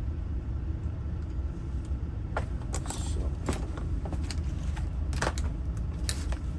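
Keys jangling and light metallic clicks, scattered from about two seconds in, over a steady low rumble.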